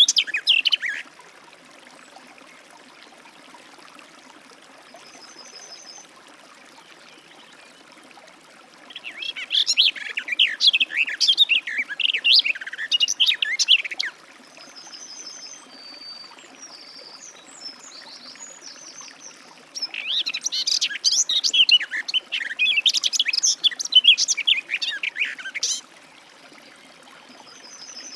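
Garden warbler singing: long, fast, rambling warbled phrases of several seconds each, one ending about a second in, another from about nine to fourteen seconds and a third from about twenty to twenty-six seconds. In the pauses, fainter short high notes of another bird repeat.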